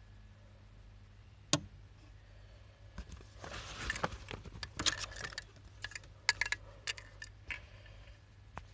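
A sharp mechanical click about a second and a half in, then a run of rattling clicks and rustling from the Ricoh Synchrofax recorder's mechanism being handled, over a low steady hum.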